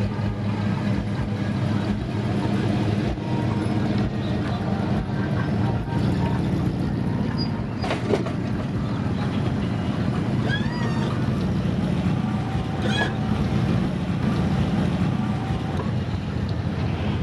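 Car engines running with a steady low rumble, with a few faint high squeaks around the middle.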